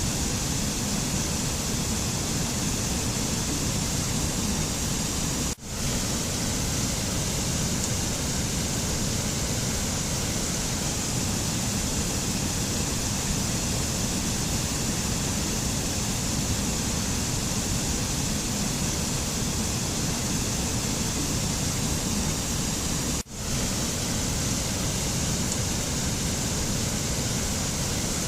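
Steady, even rushing noise of a nature-ambience track, with no tune or rhythm in it, the mountain sound this meditation recording is built on. It drops out for a split second twice, about a fifth of the way in and again about four-fifths through.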